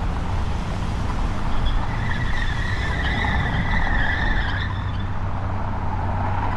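Steady rumble of road traffic, with a high, steady squeal that starts about one and a half seconds in and lasts about three seconds.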